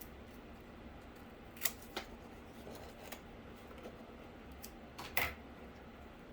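Scissors snipping cardboard, a few short sharp cuts, with the loudest ones around two seconds in and near the end, amid light handling of the cardboard.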